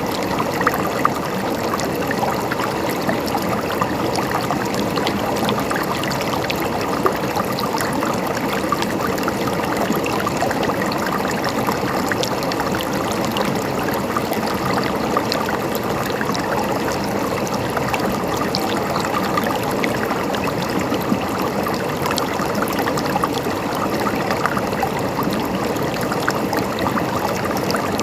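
Shallow running water flowing and gurgling steadily, with many small splashes and droplet ticks.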